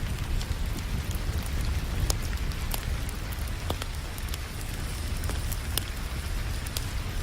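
Wood fire crackling, with scattered sharp pops, over a steady hiss of rain and a constant low rumble.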